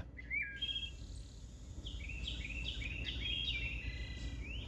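Wild birds calling in woodland: a run of short, clear chirps that comes quicker about halfway through, over a steady low background rumble.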